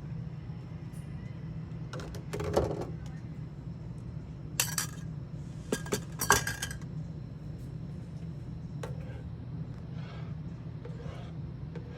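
Cooking utensils clinking and clattering against cookware while eggs are scrambled: a few sharp clinks about two seconds in and again around five and six seconds, over a steady low hum.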